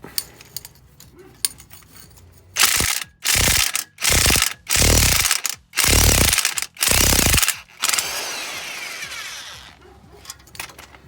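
Half-inch-drive impact wrench hammering in six short bursts on the exhaust flange nuts of a 2014 Chevy Silverado, then a longer sound that fades away. The trigger is worked lightly on the flange stud nuts.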